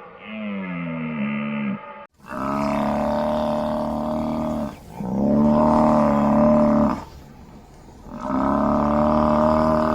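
An animal calling: a call that drops in pitch, cut off about two seconds in, then three long, steady, low calls, each about two seconds long, with short pauses between them.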